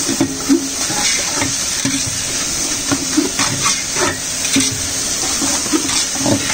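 Chopped fenugreek leaves and onion frying in oil in a large metal pot, a steady sizzle with frequent scrapes and knocks as a metal spatula stirs and tosses them against the pot.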